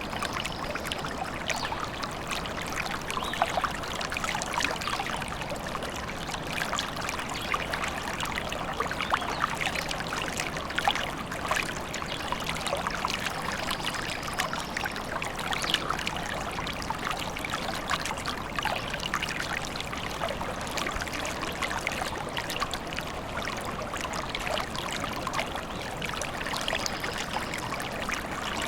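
Small stream trickling and splashing steadily, a dense continuous patter of running water.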